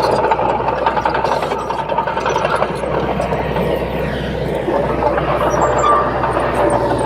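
Komatsu D21P bulldozer working: its diesel engine running steadily while the steel tracks squeal.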